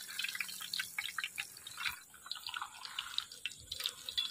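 Batter-coated spinach leaf frying in hot oil, sizzling with a dense, irregular patter of small crackling pops.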